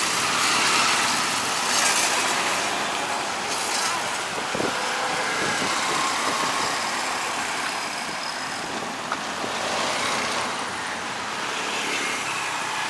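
Road traffic on a busy street: a steady wash of passing vehicle engines and tyre noise that swells and fades as vehicles go by.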